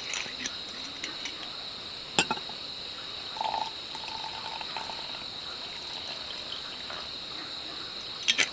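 Steady high-pitched insect chirring, with a few sharp small clicks, one about two seconds in and several near the end.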